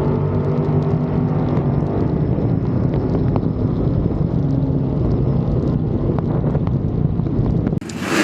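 Drag-race Chevrolet Vega's engine running at a steady idle, cutting off abruptly near the end.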